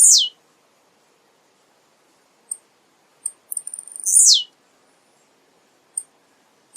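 Male blue-black grassquit (tiziu) singing: a very high buzzy note that drops in a quick downward sweep about four seconds in, set among sparse short high chips, with the falling end of a previous phrase right at the start.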